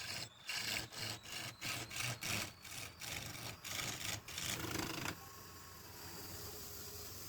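Wood being worked by hand in regular back-and-forth strokes, about two to three a second, like sawing or rasping. The strokes stop about five seconds in, leaving a steady machine hum.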